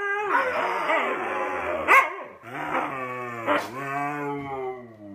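Two huskies taking turns with long, wavering howl-like vocalizations, their pitch sliding up and down: a higher voice first, then a lower one that carries on. There are two sharp clicks, the first about two seconds in and the loudest moment, the second past three and a half seconds.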